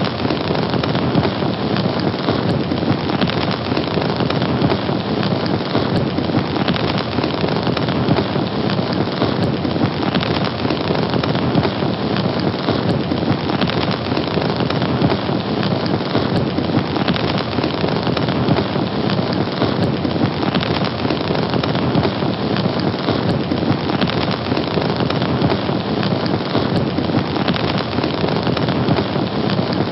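Fire burning with a steady, dense hiss.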